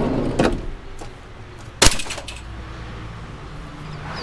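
Scrap steel being loaded into a van: a light knock, then one loud metal clang just before two seconds in, over a steady low engine hum.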